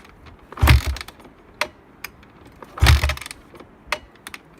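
2007 Honda CRF250R single-cylinder four-stroke being kick-started from cold: two kicks about two seconds apart, each turning the engine over briefly without it starting, with light mechanical clicks between.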